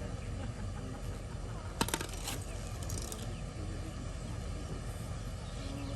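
Steady low outdoor background noise, with a quick clatter of sharp metallic clicks about two seconds in and a few lighter clicks about a second later.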